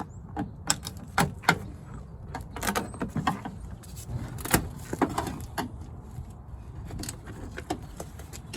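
Jeep Comanche door trim panel being pried off, its plastic push clips popping loose: an irregular string of sharp snaps and clicks with the panel rattling.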